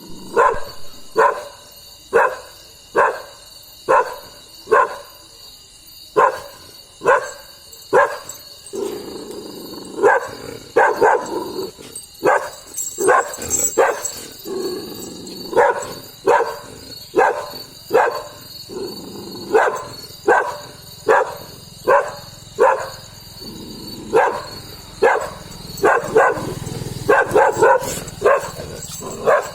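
Street dog barking aggressively and repeatedly, about one bark a second, with a steady lower rumble under the barks from about nine seconds in.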